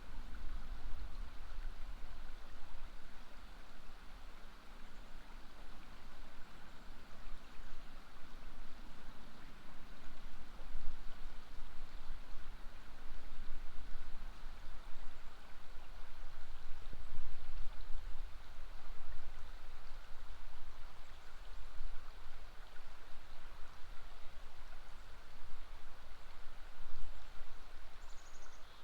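River water flowing steadily, with a low, uneven rumble underneath.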